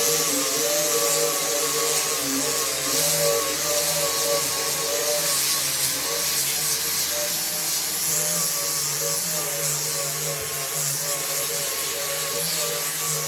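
An electric power tool's motor running steadily, with a hiss and a pitch that wavers slightly.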